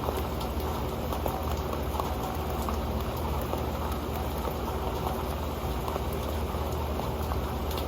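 Rain falling on an old pan: a steady patter of many small, sharp drop ticks over a dense, even hiss.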